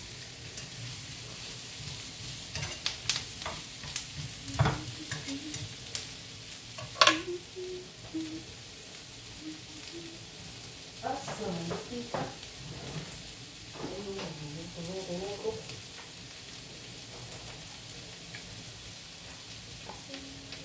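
Zucchini, onion and meat sizzling in oil in a nonstick frying pan over a gas flame, a steady hiss. Wooden chopsticks click and scrape against the pan while stirring in the first several seconds, with one sharp click about seven seconds in.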